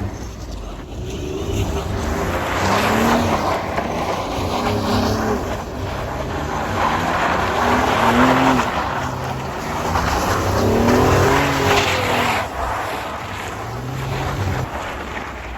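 A vehicle engine revving hard in repeated rising and falling swells, about four times, with the wheels spinning on snow as it does donuts.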